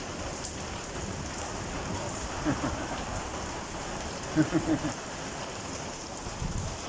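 Heavy rain falling steadily on hard surfaces, an even hiss. A few short, louder sounds come through about two and a half seconds in and again around four and a half seconds in.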